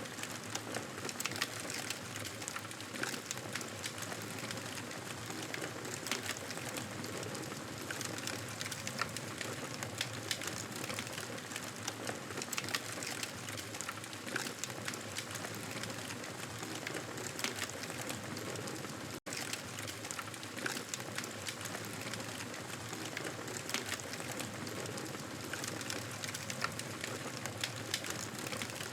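Wood fire crackling steadily in a fireplace, with many small sharp pops and snaps over a soft hiss. The sound drops out for an instant about nineteen seconds in.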